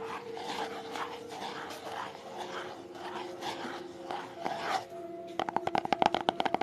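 ASMR trigger sounds: soft, irregular scraping, then about five seconds in a fast run of crisp taps, about ten a second. Faint steady background music tones sit underneath.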